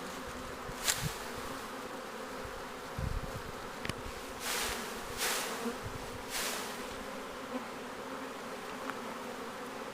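Honey bee swarm buzzing steadily as a massed hum, with several short swishes of leaves and branches as the bush holding the swarm is shaken, and a few dull low thuds.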